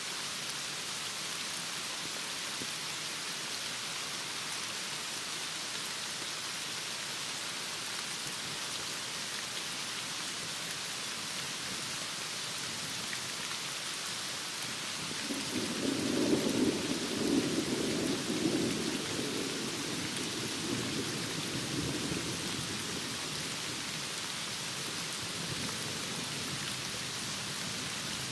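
Heavy rain falling steadily as an even hiss. About halfway through, a roll of thunder rumbles low and louder for several seconds, then fades back under the rain.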